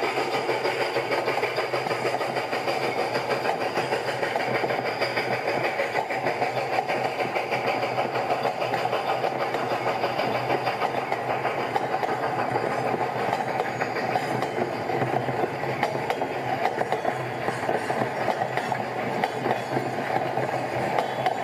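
A train running on the track: a steady rumble and rattle of wheels and cars that goes on without a break.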